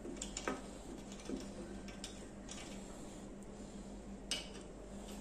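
A few light clicks and knocks, such as tools or wood being handled, over a steady low electrical hum. No power tool is running.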